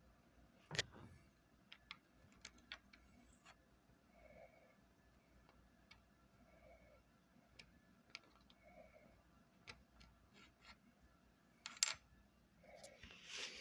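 Near silence with faint scattered clicks and taps, a sharper tap about a second in and another near the end.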